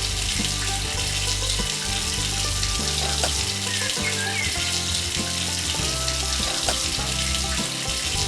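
Steady hiss of running water, over background music with low sustained bass notes.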